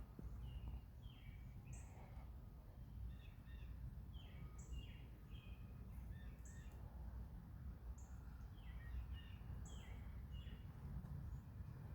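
Several birds chirping and calling, faint, with a short very high note repeating every second or two over a steady low rumble.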